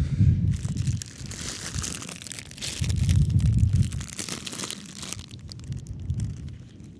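Wind buffeting the microphone in gusts, with a crinkly rustling through the middle few seconds.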